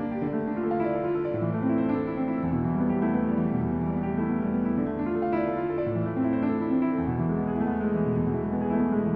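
Background piano music: slow, sustained chords over a low bass line, changing every second or so.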